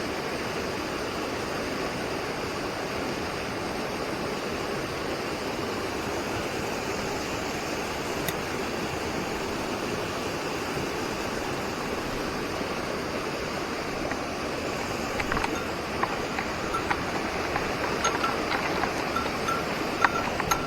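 Steady rushing of a mountain stream's water. Near the end a small bell starts jingling over it again and again, with light clicks.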